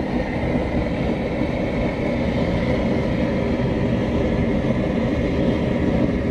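Double-burner propane cooker running steadily, mixed with wind on the microphone: an unbroken rushing noise that stays level throughout.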